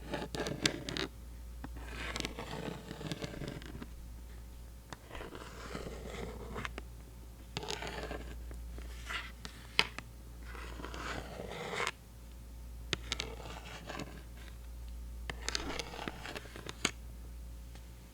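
Pentel rubber pencil-cap erasers being scratched and rubbed, in a series of scraping strokes each a second or two long, with sharp clicks between them.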